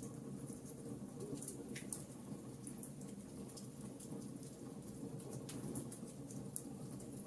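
Wood fire crackling in a fireplace: a steady low rumble of flames under many small, irregular pops and snaps, with a couple of sharper snaps standing out.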